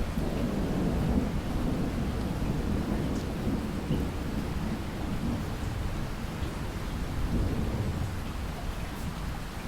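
Thunderstorm: low rolling thunder rumbling continuously over steady rain, swelling louder about a second in and again near three-quarters of the way through.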